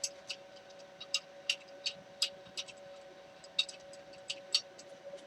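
Light, irregular clicks and taps of tools or clamp parts being handled while a workpiece is set up, over a faint steady hum.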